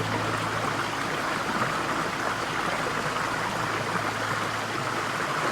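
Steady rushing of flowing water, like a stream, with a low held tone underneath that ends about four and a half seconds in.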